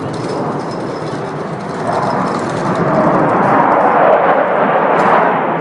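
Jet noise from a fighter aircraft flying past, a steady rushing sound that grows louder about two seconds in.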